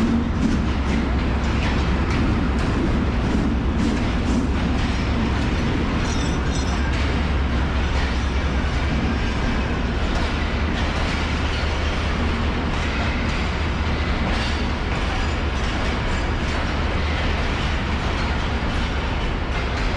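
Pakistan Railways train running on the track: a steady low rumble with frequent clicks and rattles from the wheels and carriages.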